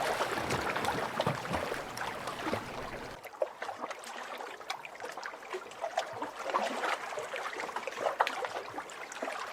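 Water trickling, as from a small stream, with many small scattered clicks and taps over it. There is a low rumble for the first three seconds or so, which then drops away.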